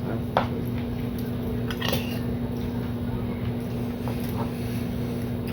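A few light clicks of tableware during a meal, over a steady low hum.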